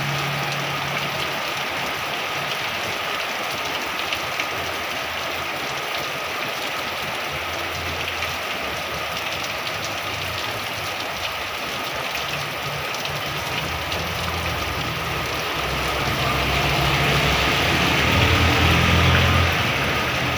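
Heavy rain falling steadily in a dense hiss, with the low hum of a vehicle engine underneath that grows louder near the end.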